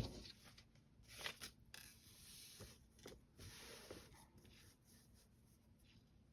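Faint rustling and scraping of paper and fabric being handled and flipped over, with a few light taps.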